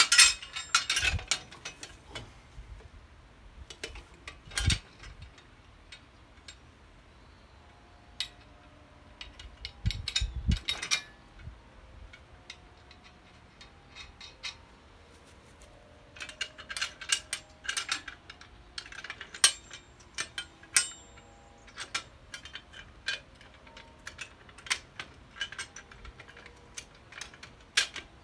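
Irregular metallic clicks and clanks of steel parts being handled and adjusted, some in quick clusters, with faint brief ringing between them.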